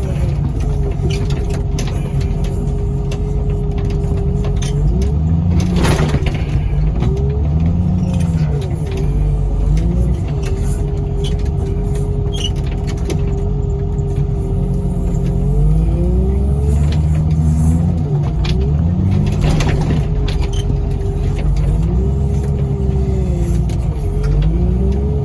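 Loader's diesel engine revving up and down repeatedly as its forks push and fold a scrap pickup truck's front end, with two loud bangs, about six seconds in and again near twenty seconds.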